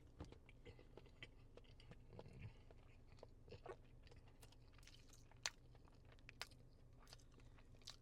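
Faint eating sounds close to the microphone: soft chewing with scattered sharp wet mouth clicks, the loudest about five and a half seconds in.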